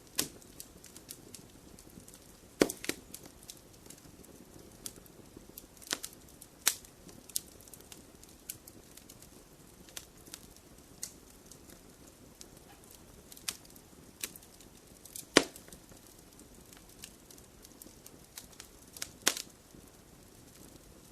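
Wood fire crackling in a fireplace: irregular sharp pops and snaps over a low, steady hiss of burning, with a few louder snaps, the loudest about two-thirds of the way through.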